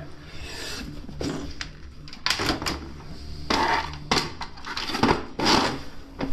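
Irregular rubbing and scraping handling noises, about half a dozen short strokes, from hands working on a bicycle tyre and inner tube during a puncture repair, over a steady low hum.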